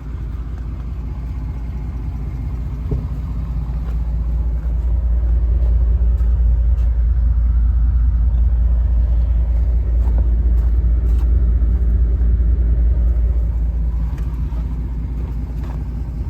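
A 2010 Chevrolet Silverado's V8 engine running steadily with a low rumble, growing louder about five seconds in and then holding even.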